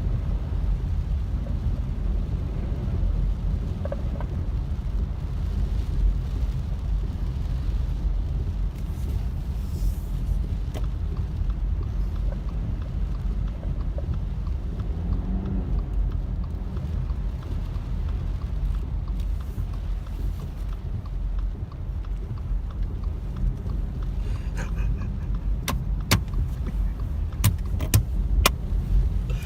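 Car driving on a rain-soaked road, heard from inside the cabin: a steady low rumble of engine and tyres, with a few sharp clicks near the end.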